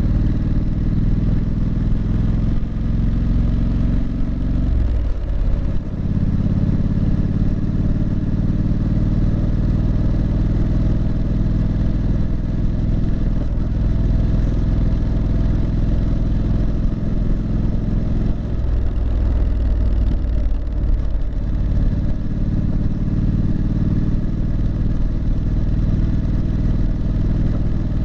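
Exhaust note of a Triumph Street Scrambler's 900 cc parallel-twin engine while riding, running steadily. The note dips briefly twice, as the throttle eases off.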